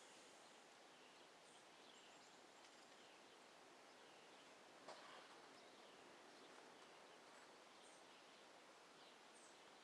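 Near silence: faint outdoor ambience with soft, repeated high chirps about once a second and a single faint click about five seconds in.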